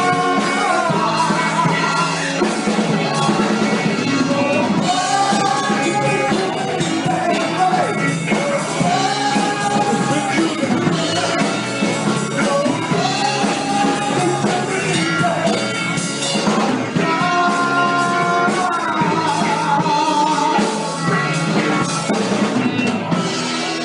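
Live soul band playing a song, a lead voice holding long, gliding notes over drums and the band.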